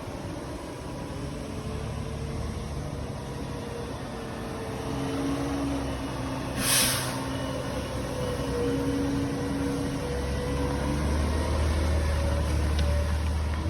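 Front-loader garbage truck's diesel engine running, its pitch shifting up and down, with a short sharp burst of air hiss about seven seconds in. The engine's low rumble grows louder in the last few seconds.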